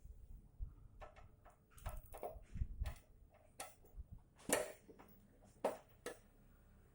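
Scattered clicks and light knocks, irregular, from hand work on an amplifier chassis: tools, screws and parts being handled, with two sharper clicks a little past the middle.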